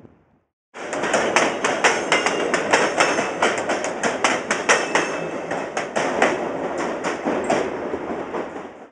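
Freight train cars rolling past close by: wheels clattering in a dense, irregular run of sharp knocks over the rail joints, with a faint squeal now and then. It starts suddenly after a moment of silence and cuts off abruptly.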